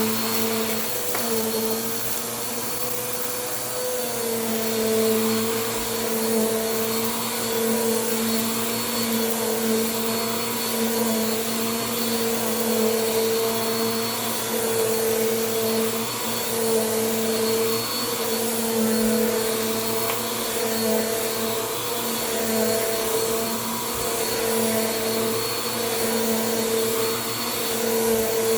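Bissell PowerForce Compact vacuum cleaner running continuously, a steady motor hum over rushing air. The pitch wavers slightly about four seconds in.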